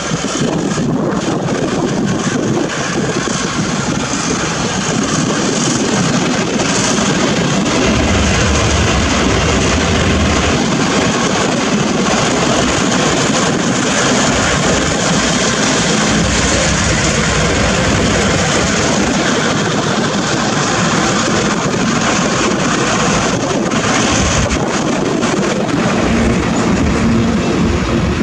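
A loud freight train passing close by: the Taiwan Railway R100-class diesel-electric locomotive's engine runs as it goes past, then trailing electric locomotives and covered hopper wagons roll by on the rails. Low rumbling swells rise and fall under the steady rolling noise.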